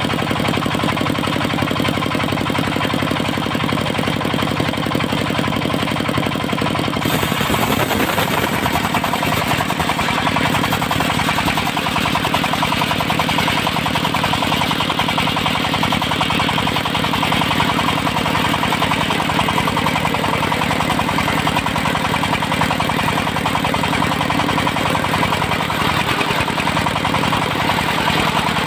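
Diesel engine running a portable circular sawmill, steady and loud. About seven seconds in the sound turns harsher and brighter and the engine note dips briefly, then holds steady.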